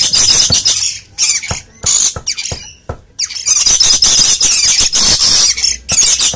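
Harsh, noisy bird squawks in a string of loud bursts, with one long drawn-out squawk in the middle.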